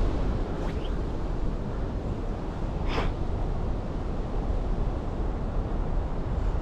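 Strong wind buffeting the microphone: a steady low rumble, with one brief sharp sound about three seconds in.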